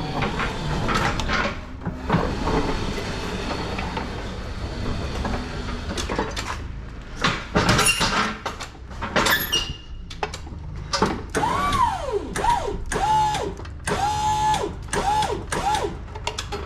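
An electric warehouse truck being driven at the loading ramp: knocks and clatter, then its motor whining up and down in short spurts about six times near the end, over a steady low hum.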